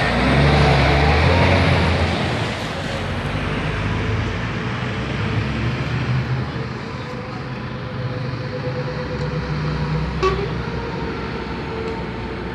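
Heavy truck engine running with road traffic noise, loudest at the start and fading gradually as it moves away. A single short click sounds about ten seconds in.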